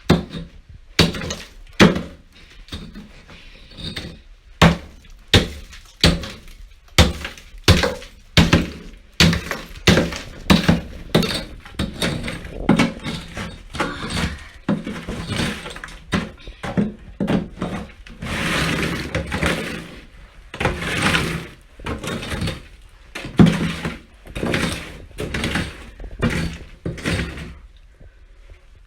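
Ice being broken up and chipped loose: a long run of hard knocks and cracks, one or two a second, with chunks shattering and a few longer crunching stretches past the middle.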